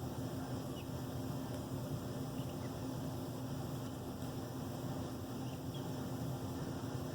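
Steady background hum and hiss, with a few faint, short high chirps from baby cockatiels being hand-fed.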